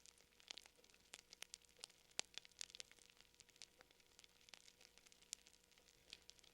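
Fire crackling softly: irregular sharp pops and snaps, several a second, over a faint hiss.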